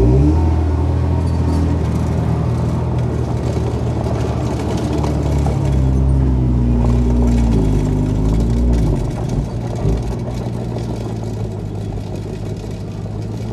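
Heavy diesel engine of earthmoving machinery running, its pitch rising and falling as it revs about six to nine seconds in, then settling into a lower, rougher drone.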